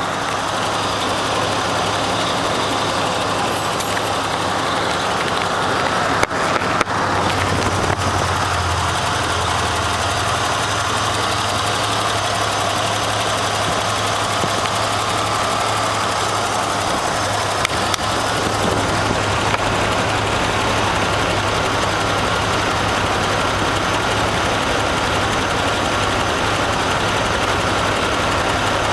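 A big engine idling steadily, with a low, even hum and a couple of brief momentary dips.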